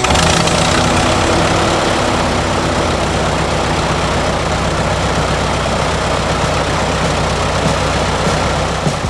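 Long-EZ's 180 hp Lycoming O-360 four-cylinder aircraft engine and pusher propeller running steadily and loudly.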